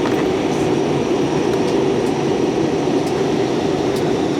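Steady airliner cabin noise: the engines and airflow make an even rumble, with a few faint ticks.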